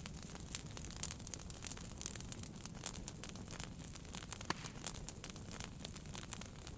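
Wood fire burning in a fireplace, crackling and popping irregularly over a low steady rush of flame, with one sharper pop about four and a half seconds in.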